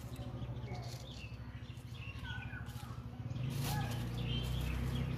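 Birds chirping outdoors in short calls, over a low steady hum that grows louder about three seconds in.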